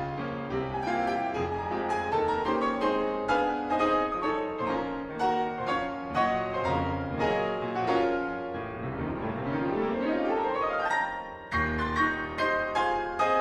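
Background piano music: quick, busy notes, with a fast upward sweep of notes about two-thirds of the way through.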